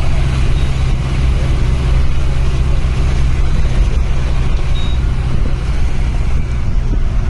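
Engine of a safari vehicle running steadily, a constant low drone with no change in speed.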